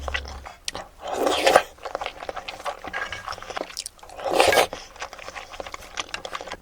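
Close-miked eating sounds: wet chewing and mouth clicks while a person eats soft-boiled eggs, with two louder half-second bursts, about a second in and about four seconds in.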